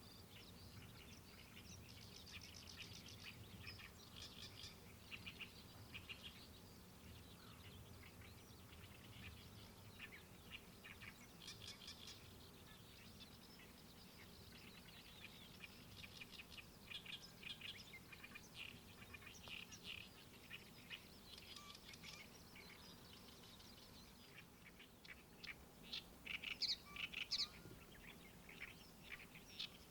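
Small birds chirping and calling on and off, with a louder run of calls near the end, over a faint low steady rumble.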